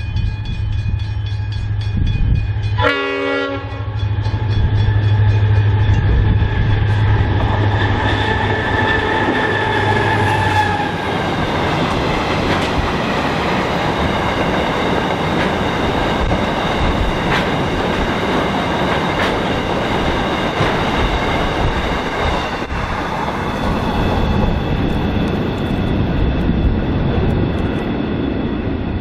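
Diesel freight train approaching and passing. The locomotive's horn sounds in a longer blast around 8 to 11 seconds, and then loaded aggregate hopper wagons rumble and clack past. Steady ringing tones from the level crossing alarm carry on underneath throughout.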